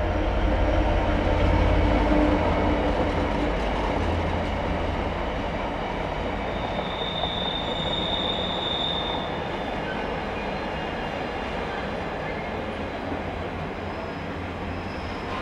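A Freightliner Class 66 diesel locomotive passes, its two-stroke V12 engine droning low and strongest in the first few seconds. Container flat wagons follow with steady wheel-on-rail rolling noise, fading slowly, and a brief high-pitched wheel squeal about halfway through.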